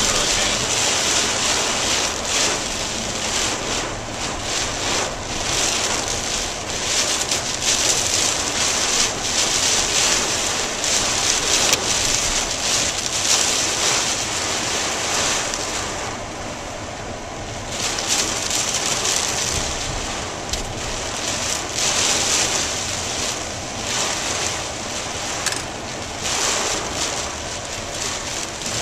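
Heavy, wind-driven hurricane rain pelting a moving car, heard from inside the cabin as a dense, steady hiss that surges and flickers with the gusts. It eases briefly about two thirds of the way through.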